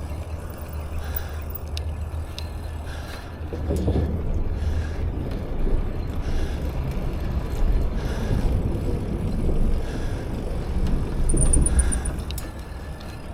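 Wind rushing over an action camera's microphone, with the low rumble of bicycle tyres rolling on pavement, swelling louder from about three and a half seconds in.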